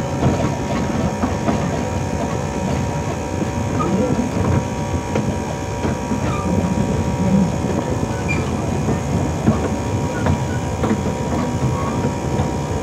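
Narrow-gauge train running along light track: a steady hum from the locomotive with irregular clicks and rattles of the wheels over the rails.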